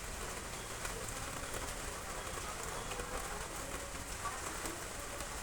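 Heavy rain falling steadily: an even hiss with scattered sharp ticks of drops striking nearby surfaces.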